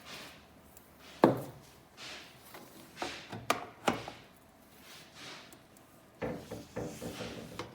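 A string of separate knocks and clicks of hard objects being handled, the loudest about a second in, with a short rattling run of knocks near the end; no motor is running.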